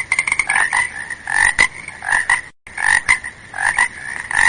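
Frog croaking: a recorded sound effect of repeated rapid croaks that loops, with a brief break about two and a half seconds in before the same croaks start again.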